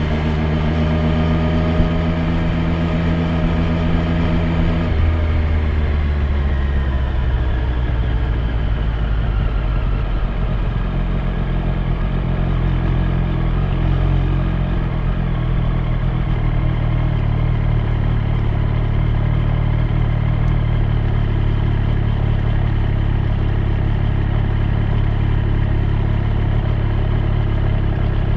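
Triumph Street Triple 765 R's three-cylinder engine running at a steady pitch. About five seconds in, the note falls over several seconds as the bike slows, then settles into a low, steady run.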